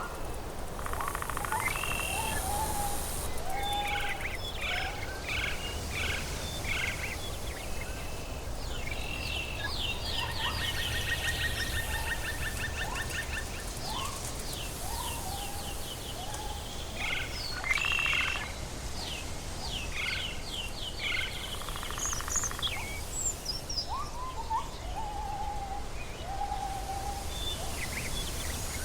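Tropical forest ambience: several birds calling with short chirps and whistled notes, and a fast trill from about nine to thirteen seconds in, over a steady low background rumble.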